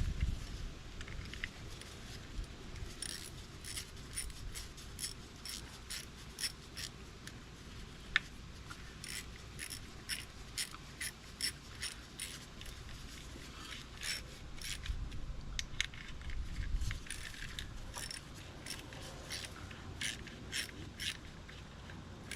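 Hand ratchet with an 8 mm socket clicking in short runs of sharp ticks as the handle is swung back and forth, snugging down the oil filter cover bolts.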